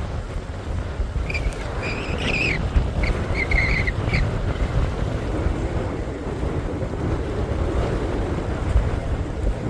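Strong wind buffeting the microphone, a steady low rumbling rush. About a second in, a few short high chirping calls come through for a few seconds.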